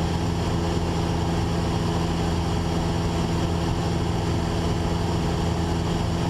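Cessna 172's four-cylinder Lycoming engine and propeller droning steadily in flight, heard inside the cabin, the mixture leaned for the climb.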